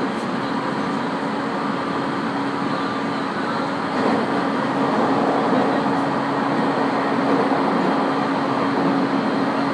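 Interior running noise of an IGR 7000 series (701 series type) electric train at speed: a steady rumble of wheels on rail with a steady low hum under it, growing a little louder about four seconds in.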